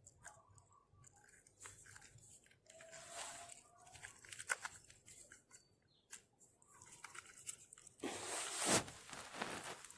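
Dry vegetation rustling and crunching in faint, uneven spells, with a louder stretch of rustling about eight seconds in.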